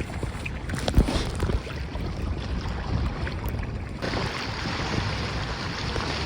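A sailboat underway: water rushing along the hull and wind on the microphone, with a sharp knock about a second in. The rushing turns brighter and steadier about four seconds in.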